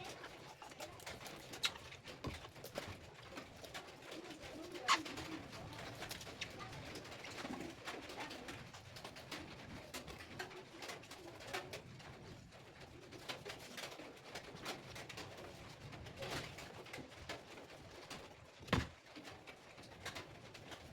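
Faint bird cooing, with scattered light clicks and taps, one sharper click about 5 seconds in and another near the end.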